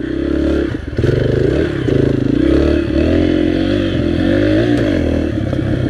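Dirt bike engine being ridden hard: the engine note climbs as the throttle opens, then drops back, several times over. Each dip is where it is let off or shifted.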